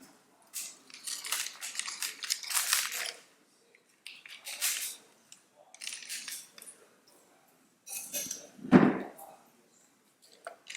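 Kitchen utensils scraping and clinking against dishes in a series of short, irregular scrapes, with one louder knock a little before the end.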